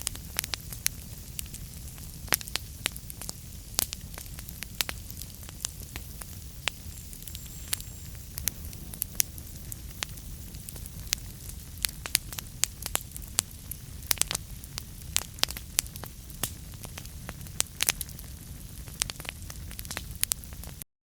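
Wood fire in a fireplace crackling: frequent irregular sharp pops and snaps over a low steady rumble and soft hiss. The sound cuts off abruptly near the end.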